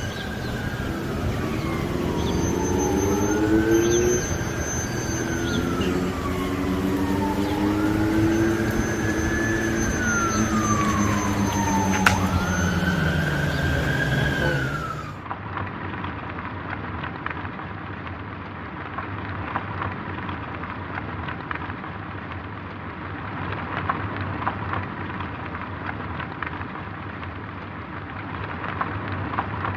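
A wailing emergency-vehicle siren, its pitch rising and then falling about every four seconds over a rumble of traffic. About halfway through it cuts off and gives way to a steady rushing street noise.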